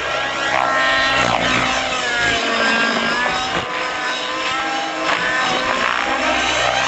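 Radio-controlled model aerobatic plane's YS 91SR four-stroke glow engine running in flight, its pitch repeatedly rising and falling as the plane passes and the throttle changes through manoeuvres.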